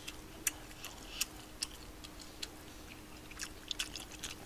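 Close-miked chewing mouth sounds while eating: short, sharp, wet clicks at an irregular pace of about two a second, over a faint steady hum.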